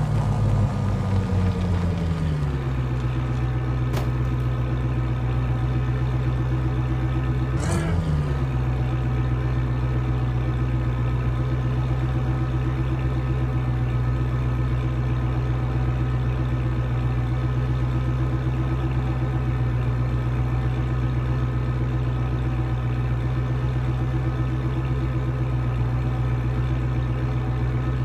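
Muscle car engine dropping from a rev to a steady idle over the first couple of seconds, then idling evenly, with a sharp click about four seconds in and a short throttle blip about eight seconds in.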